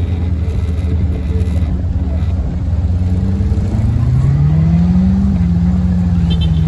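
A motor vehicle's engine running at low speed, picking up revs about four seconds in and then holding steady.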